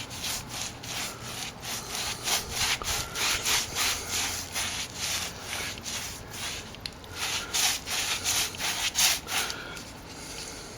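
Repeated scratchy rubbing strokes against a sand-textured plaster wall, quick and irregular at about two a second, easing briefly around six seconds in.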